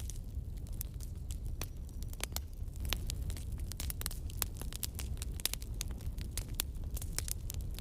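Wood logs burning in a fireplace, crackling with irregular sharp pops and snaps over a low, steady rumble of the flames.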